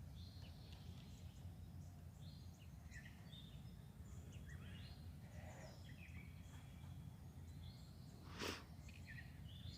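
Small songbirds chirping and singing faintly, many short calls and whistles scattered throughout, over a steady low rumble. A brief sharp sound stands out about eight and a half seconds in.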